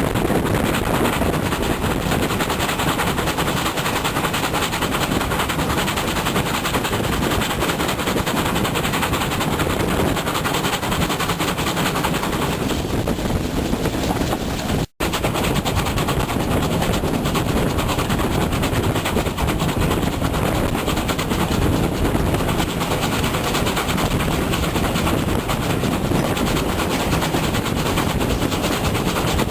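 Heavy wind buffeting on the microphone, a loud continuous rumbling rush that drowns out everything else, with a momentary cut to silence about halfway through.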